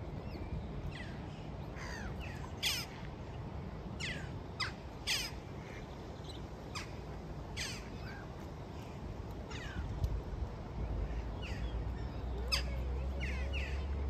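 Birds calling: a string of short, harsh calls at irregular intervals, each dropping sharply in pitch, over a steady low rumble.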